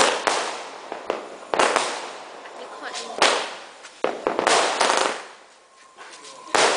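Small aerial fireworks bursting overhead: five sharp bangs about a second and a half apart, each trailing off in a hiss.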